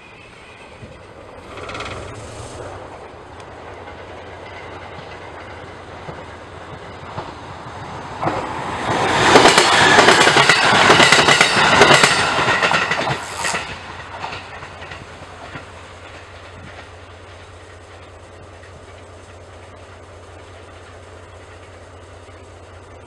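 A commuter train passing close by, its wheels clattering over the rail joints. It swells up about a third of the way in, stays loud for about five seconds, then fades away. A steady low hum runs underneath throughout.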